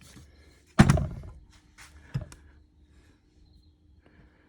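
A piston, its rubber dust boot stretched around it, pushed into a Girling brake caliper: one heavy thunk about a second in, then a lighter knock about a second later.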